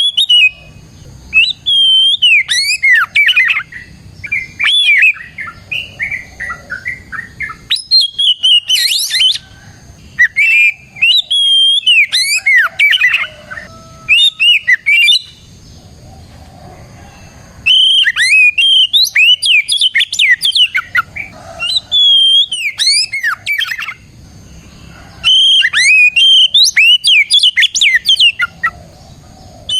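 Oriental magpie-robin singing loudly and continuously, with long phrases of rapid whistled notes that slur up and down, broken by short pauses of one to two seconds.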